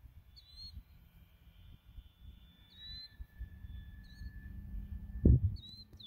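A black-capped chickadee calling with four short, high chirps a second or two apart, over a low rumble on the microphone. A loud low bump comes near the end.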